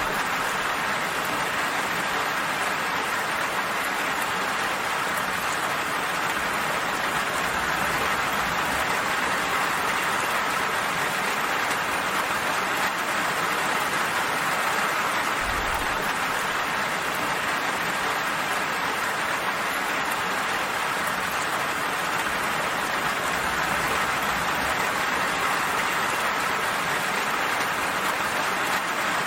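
Steady, gentle rain falling: an even, unbroken hiss of many drops with no change in strength.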